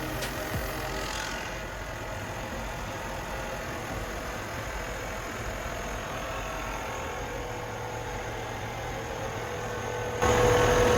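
Junior II breathing-air compressor running steadily with a low hum while it builds pressure toward about 200 bar, its filling valve closed. About ten seconds in it grows suddenly louder.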